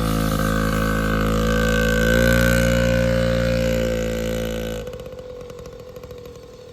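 Yamaha PW50's small two-stroke single-cylinder engine running at a steady low speed, its pitch rising a little about two seconds in. The sound drops off sharply about five seconds in and stays much fainter.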